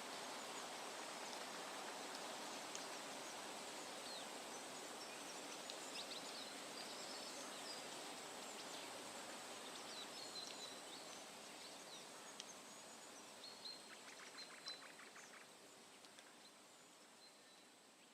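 Quiet outdoor ambience: a steady hiss with scattered short high bird chirps, a brief rapid ticking trill a little past the middle, fading out toward the end.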